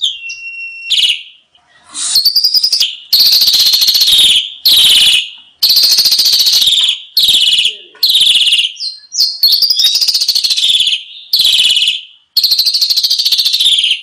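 Asian pied starling (jalak suren) song from a training recording: a short whistled note near the start, then a run of about nine loud, harsh, buzzy phrases with short gaps between them.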